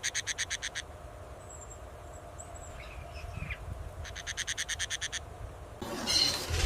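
A bird's fast, evenly pulsed high trill, heard in two bouts: one ends under a second in and the other comes about two seconds later. Faint high chirps fall between the bouts, and a louder rustling noise starts near the end.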